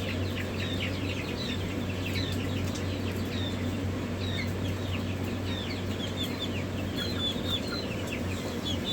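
A crowd of young chickens peeping: many short, high, falling chirps overlapping without pause, over a steady low hum.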